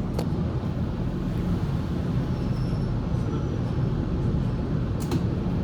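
Waratah A set electric train running, heard from inside the carriage as a steady low rumble. Two sharp clicks sound, one just after the start and one near the end.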